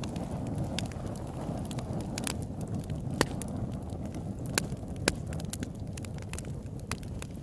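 Campfire burning: a steady low rumble of flames with scattered sharp crackles and pops from the burning wood, a few louder pops standing out.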